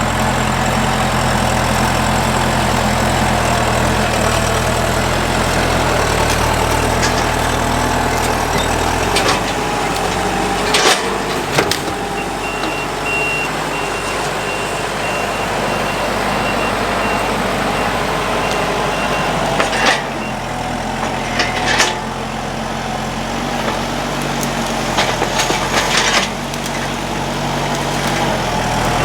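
A heavy work vehicle's engine running steadily, with a backup alarm beeping for several seconds midway. A few sharp clunks and knocks come in between.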